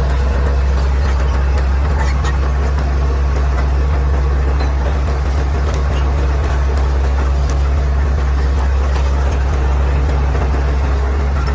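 Caterpillar D6R XL bulldozer's diesel engine running steadily, a deep even drone.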